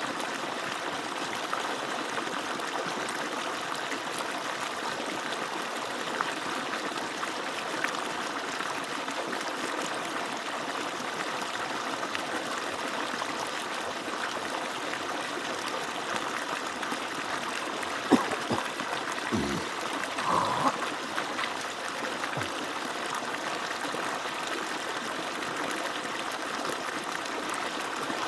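Steady rush of water pouring and splashing from an agricultural motor pump's outlet. A sharp click and a couple of brief thuds come about two-thirds of the way through.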